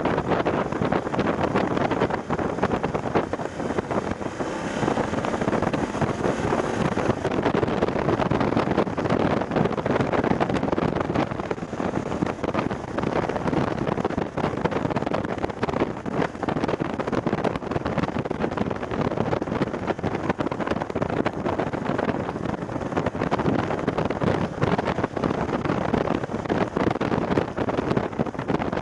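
Loud wind buffeting the action camera's microphone on a moving BMW F750GS motorcycle, a steady rushing flutter with the bike's engine running beneath it.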